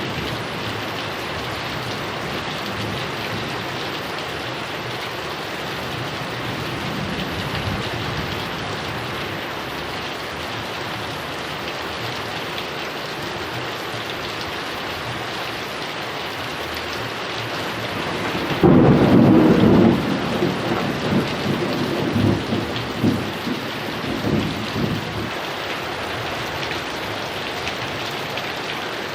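Heavy rain falling steadily. A loud thunderclap breaks in about two-thirds of the way through, and its rumble rolls on unevenly for several seconds before the rain alone is left.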